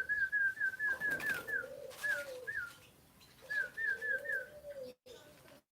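A spotted dove cooing in low, drawn-out rising-and-falling notes. Over it another bird gives quick runs of short, higher chirps, about five a second, that stop and start.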